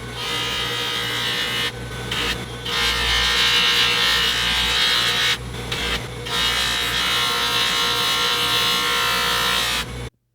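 Belt grinder running with a steady motor hum, a workpiece pressed against the abrasive belt with a loud rasping grind. The grind breaks off briefly about two seconds in and again around five and a half seconds in as the piece is lifted, and everything stops abruptly near the end.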